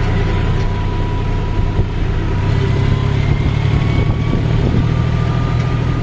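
John Deere tractor's diesel engine running steadily while pulling a trolley, its note rising a little about two and a half seconds in.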